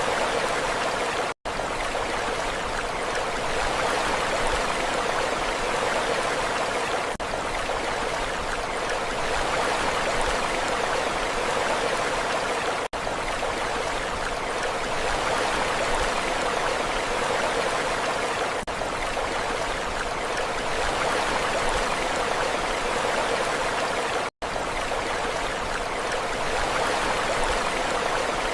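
Steady, even rush of water with no rise and fall of breaking waves. It cuts out completely for a split second twice, about a second in and near the end.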